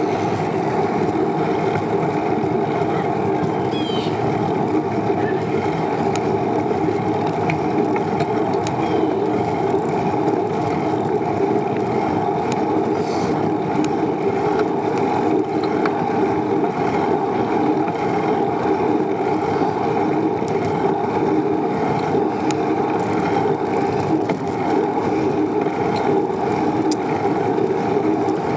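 Steady rushing noise of riding a bicycle: wind on the microphone and tyres rolling on pavement, unbroken throughout.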